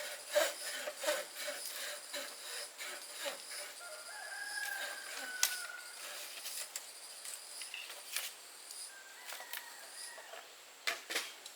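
A rooster crowing: one long call about four seconds in and a shorter one near the end, over scattered sharp knocks and clicks.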